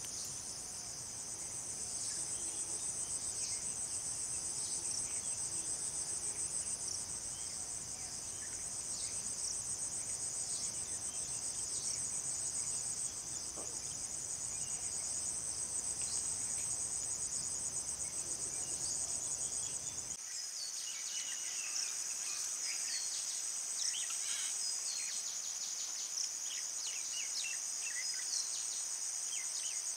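Crickets and other insects trilling in a steady, high-pitched chorus. About two-thirds of the way in, the low background hum drops away and short high chirps come in over the trilling.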